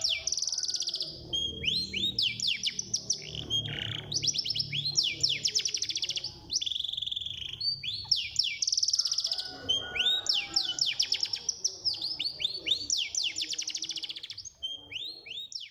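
Domestic canary singing a fast song: rapid trills of repeated falling notes, phrase after phrase with brief breaks between them.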